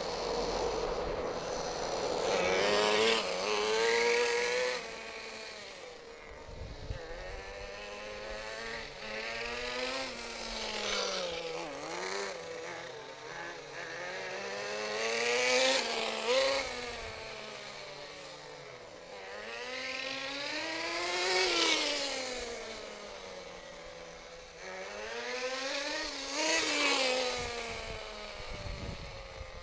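Thunder Tiger DT10's .15 two-stroke nitro engine revving up and down as the RC truck is driven hard. Its pitch climbs and drops over and over, loudest in four swells as it comes close and runs past.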